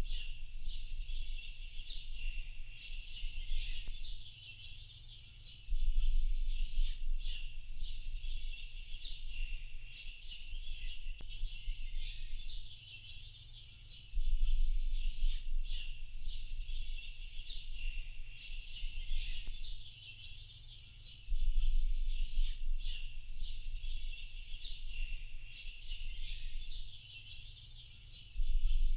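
Dense chorus of many small birds chirping and twittering, high-pitched and continuous. Under it, a low rumble comes in suddenly every seven or eight seconds, holds for a few seconds and fades.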